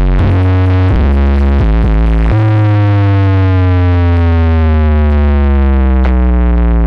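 Loud synthesizer music through a big sound system, heavy in the bass: held notes that step to a new pitch every half second or so, then one long note that slides slowly down in pitch.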